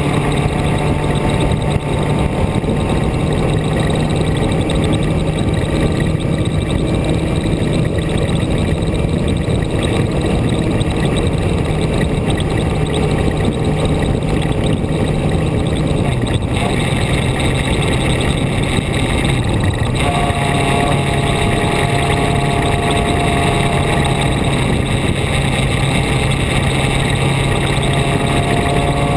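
Vehicle engine running steadily while driving, heard under a constant layer of wind and road noise. Its pitch dips briefly a little past halfway and again about two-thirds of the way through, then settles back to its steady level.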